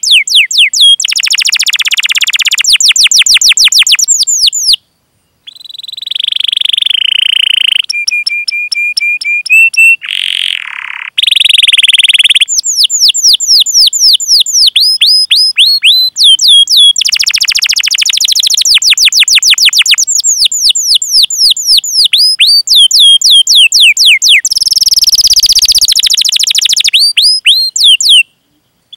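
Domestic canary singing loudly: long runs of quickly repeated falling whistled 'cuit cuit' notes and fast rolling trills, with a few short held tones. The song breaks off briefly about five seconds in and again near the end.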